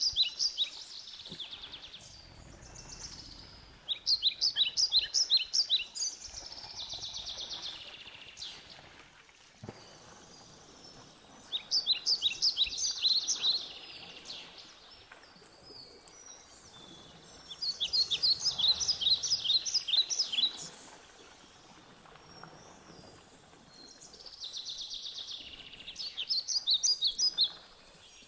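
A bird singing a repeated song: bursts of rapid high chirps, about ten a second for a couple of seconds, coming back every several seconds over a faint steady background hum of the bush.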